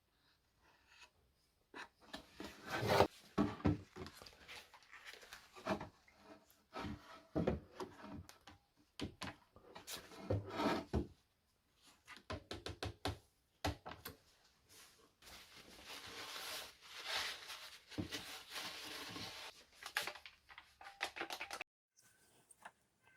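Wooden cabinet parts being worked by hand: irregular knocks and clatter of wood, with stretches of scraping, the longest in the second half.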